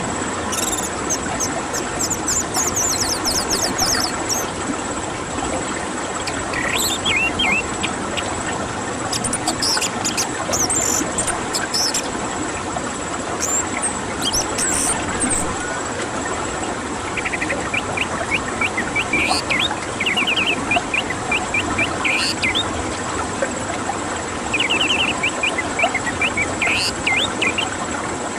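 Orange-headed thrush singing in repeated phrases of quick, high trilled and whistled notes over a steady background hiss.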